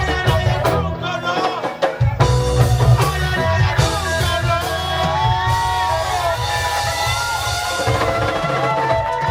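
Live reggae band playing a lovers rock groove: drum kit and heavy bass, with a melodic line gliding above them in the second half.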